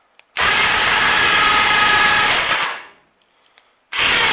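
Electric winch motor running under power in two bursts: one of about two seconds that starts abruptly and winds down, then a second starting near the end.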